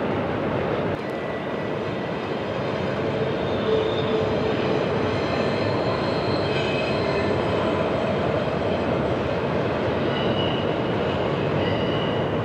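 Double-stack intermodal freight train rolling by: a steady rumble of wheels on rail, with thin, faint high-pitched wheel squeals coming and going from about three seconds in.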